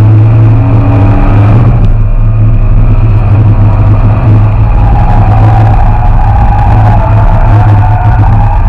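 Dodge Challenger driven at speed on a race track, heard from inside the cabin: its engine and road noise make a loud, steady low rumble, with fainter engine tones shifting in pitch as the car goes through the corners.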